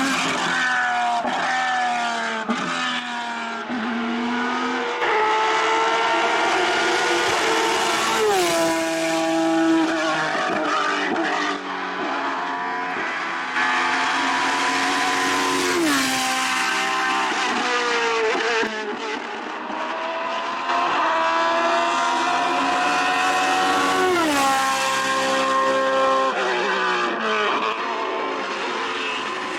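Race car engine at full throttle up a hillclimb, its pitch repeatedly climbing and then dropping with each gear change.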